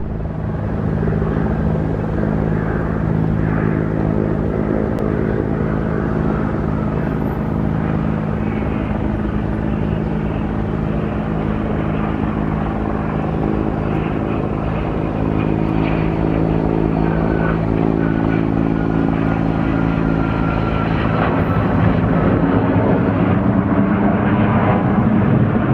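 Turbofan engines of a Cessna Citation business jet landing: a steady low drone with a faint whine gliding downward, growing louder and rougher near the end.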